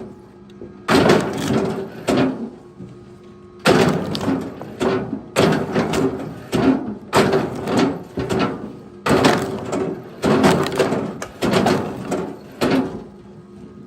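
Repeated heavy wooden knocks and thuds, about one a second, each ringing out briefly: pieces of wood being struck or thrown while working firewood.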